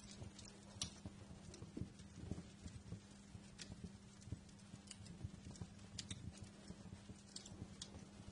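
Wood fire crackling softly: irregular small pops and snaps, a few sharper ones, over a low steady hum.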